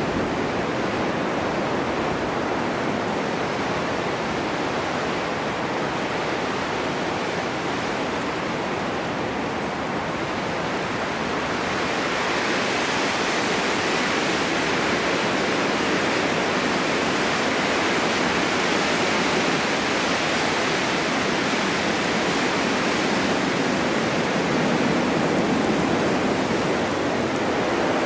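Steady snowstorm wind blowing in a continuous hiss, swelling into a stronger, brighter gust about twelve seconds in.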